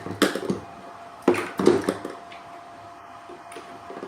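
Two short bursts of handling noise, about a quarter second and a second and a half in, as water is filled into the HHO generator's reservoir. A faint steady tone runs underneath.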